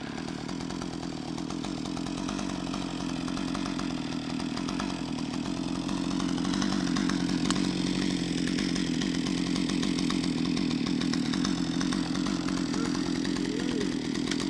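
Husqvarna 560 XP two-stroke chainsaw running steadily under load as it cuts through a log, getting a little louder about halfway through.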